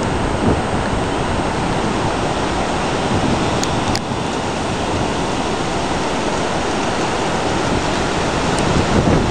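Strong, gusty thunderstorm wind rushing and buffeting against the microphone, a steady loud roar of noise.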